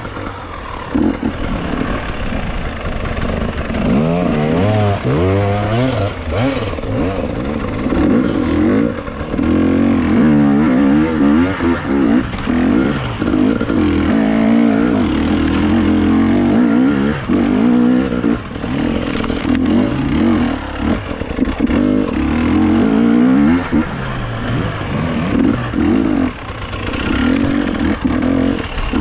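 KTM two-stroke enduro motorcycle engine being ridden off-road, its pitch rising and falling again and again as the throttle opens and closes.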